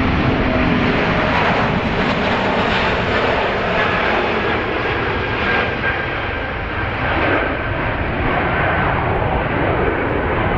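Jet airliner passing close by, a loud steady roar with a faint whine that slowly falls in pitch.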